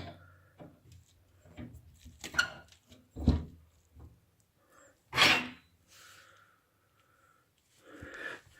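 Metal handles and latch of a double-leaf fireplace door clicking and knocking as the door is worked, a few separate knocks with the loudest about three and five seconds in. The handles are a little too long and knock against a fitting when let go.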